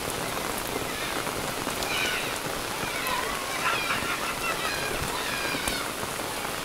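Heavy rain falling steadily onto flooded ground.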